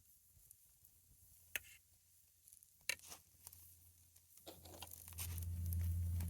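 Campfire crackling: a few sharp pops and small ticks, then a low rumble builds near the end.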